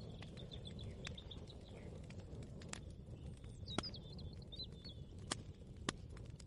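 A small bird chirping in two quick runs of short notes, over a low steady rumble of room ambience. Four sharp single clicks or knocks come in the second half.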